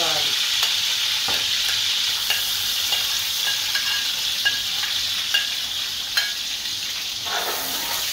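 Sliced onions sizzling steadily in hot oil in a karahi, with sharp clicks about once a second as a metal spoon taps minced garlic off a plate into the pan. Near the end a spoon scrapes in the pan as stirring begins.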